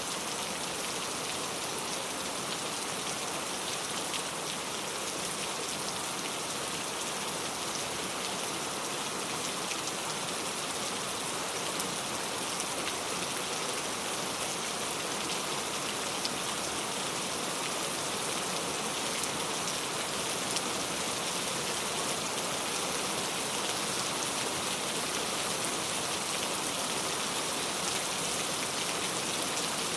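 Steady rain falling: an even hiss, strongest in the upper range, made of countless small drop hits.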